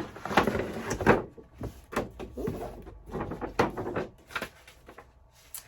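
Packaging being opened by hand: a run of rustling and scraping with several sharp knocks, such as a box lid sliding off and paper inside being handled, dying down near the end.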